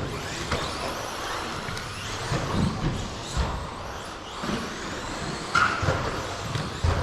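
Electric RC stadium trucks with 13.5-turn brushless motors racing around the track: motor whines rise and fall as they accelerate and brake, with several short thumps along the way.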